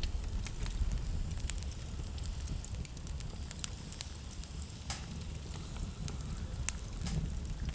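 Wood fire in a fireplace crackling, with frequent sharp snaps and a few louder pops over a low steady rumble of burning.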